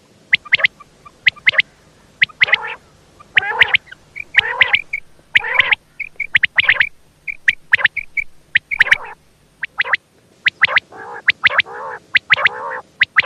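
Female common quail calling: irregular runs of short, low calls mixed with many sharp, thin high notes. This is the female's call, which draws male quail in.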